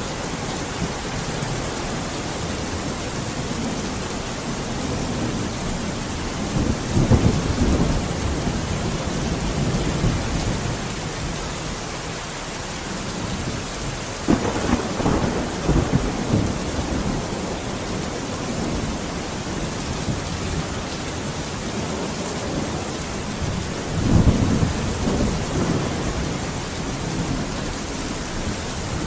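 Steady rain falling during a thunderstorm, with three low rolls of thunder: about a quarter of the way in, around the middle, and near the end.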